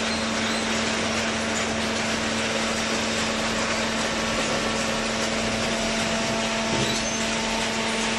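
Paper baling machine running steadily: a constant hum under an even mechanical whir.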